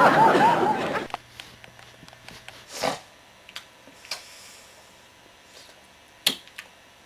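A breathy laugh that fades out about a second in, followed by a few scattered small clicks and taps.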